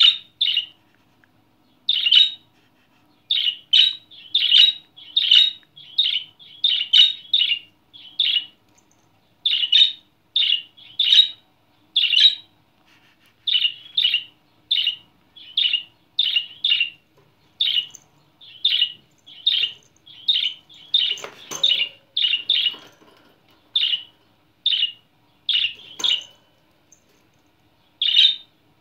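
Pet budgerigar chirping in an excited run of short, sharp chirps, one or two a second, with a short pause near the end. Two brief knocks come about three-quarters through and shortly after.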